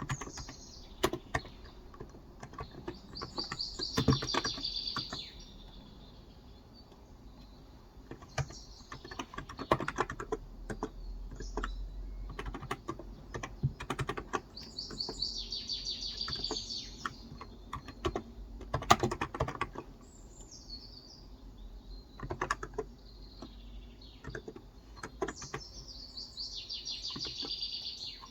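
Typing on a Cox Endeavor electrostatic capacitive (Topre-style) tenkeyless keyboard with 35 g keys: irregular runs of soft keystrokes. Birds sing in the background, a trilling phrase of about two seconds returning roughly every eleven seconds, with a few short chirps between.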